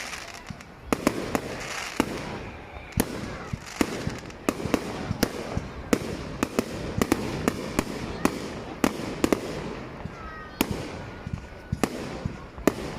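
Fireworks going off: a rapid, irregular run of sharp bangs and cracks, with a few short whistles about ten seconds in.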